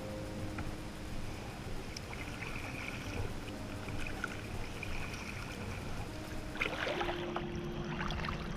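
Water sloshing and lapping around a sea kayak as it is paddled, with a cluster of splashy paddle strokes near the end.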